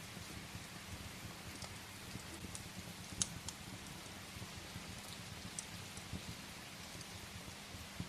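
Steady rain hiss with scattered sharp crackles and pops of firewood burning in a fireplace, one louder pop about three seconds in.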